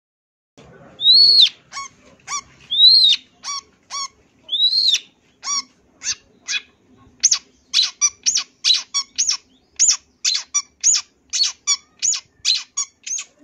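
Long-tailed shrike (cendet) singing: a few arched, whistled notes, then a fast series of short, sharp notes.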